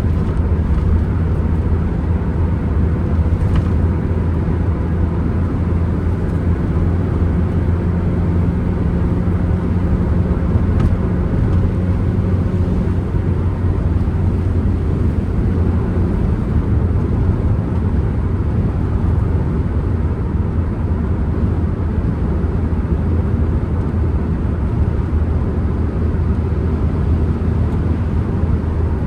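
Ford Transit Connect van on the move: a steady engine drone under road and wind noise. About halfway through, the engine's even tone eases and the tyre and wind noise takes over.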